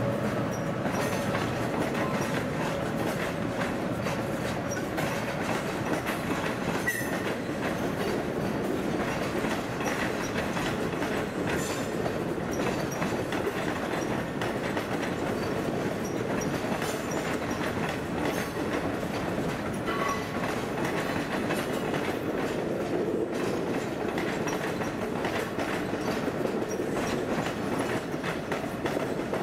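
A train of passenger coaches rolling along the station tracks, its wheels running on the rails with a steady clickety-clack over the joints. A thin steady tone sounds over it for the first seven seconds or so.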